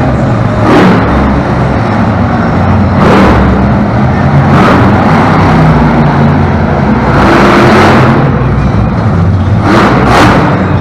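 Monster truck engine running loud, revving up and down repeatedly with several short loud surges.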